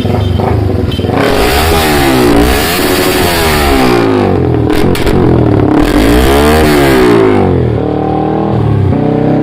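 Yamaha R15 V3 single-cylinder engine revving through an aftermarket Austin Racing exhaust. The revs climb and fall back twice, with a few sharp cracks about halfway.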